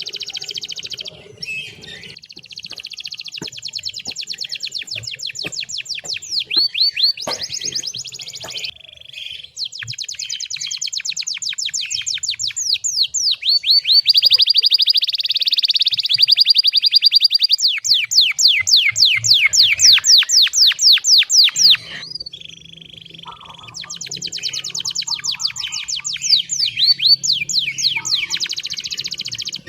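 Domestic canary singing a long, loud rolling song: phrase after phrase of rapidly repeated high notes, each a quick downward sweep, with short breaks between phrases.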